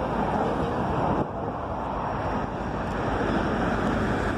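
Norfolk Southern freight train's cars rolling by below, a steady wheel-on-rail noise, mixed with wind on the microphone.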